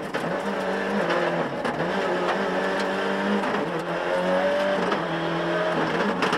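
Rally car engine running hard, its note stepping up and falling back several times as it revs through the gears.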